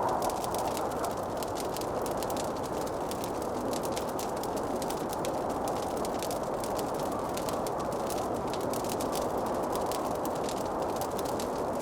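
Wood fire crackling in a fireplace: many small quick pops and snaps over a steady rushing noise.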